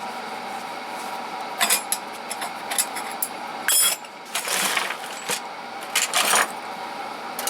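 Metal hand tools clinking and rattling as they are handled and set down: several sharp clinks and a longer scraping rattle about halfway through, over a steady hum.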